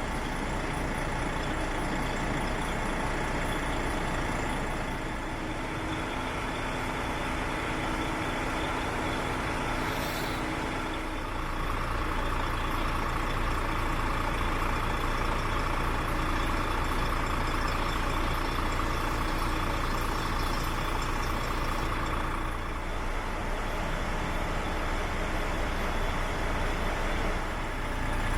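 Diesel engine of a DAF CF85 460 tractor unit, a Paccar MX 12.9-litre straight-six, running steadily at idle. A short hiss of air comes about ten seconds in.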